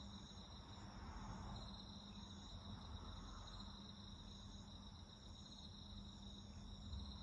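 Faint chorus of night insects such as crickets, several trilling steadily at different high pitches. One repeats short trills of about a second with brief gaps between them.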